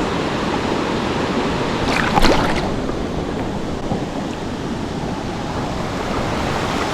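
Steady rush of creek water running over rocks, with a brief sharp splash or clatter about two seconds in.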